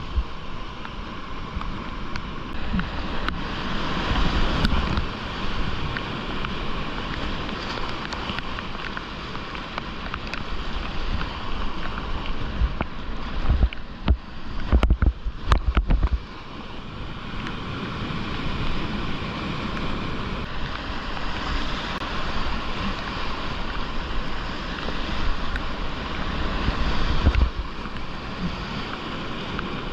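Whitewater rushing and splashing around a kayak. Heavy low buffeting thumps come in a cluster about halfway through.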